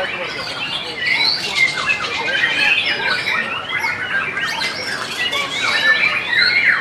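Caged songbirds singing in a rapid, varied stream of chirps and warbles, several birds overlapping.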